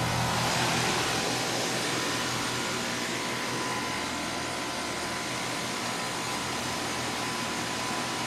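2006 1.5-ton Tempstar heat pump's outdoor unit running in cooling mode, its condenser fan giving a steady whoosh over the hum of its Copeland scroll compressor. The low hum drops back about a second in.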